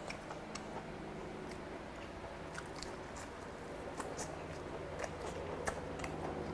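A man chewing a mouthful of soft pan-fried jeon up close, with scattered wet mouth clicks and smacks. A faint steady low hum runs underneath.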